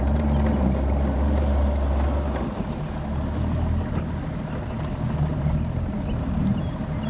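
Motorboat engine running steadily, heard aboard, with a low drone whose pitch steps down a little about two and a half seconds in.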